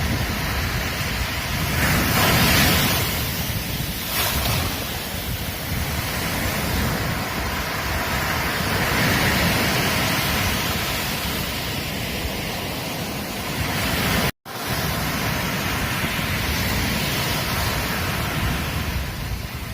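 Ocean waves breaking on a beach: a continuous rush of surf that swells and ebbs as the waves come in. A split-second dropout breaks it about two-thirds of the way through.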